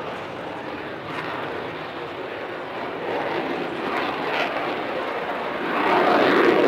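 Blue Angels F/A-18 Hornet jet engine noise, a steady rushing roar that builds and is loudest near the end, then falls away suddenly.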